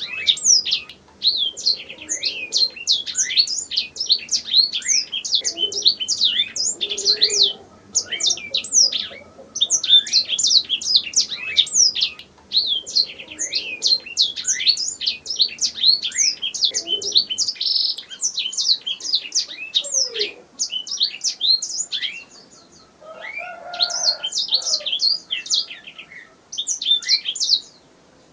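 Domestic canary singing: long runs of fast rolling trills and high chirps, broken by a few short pauses.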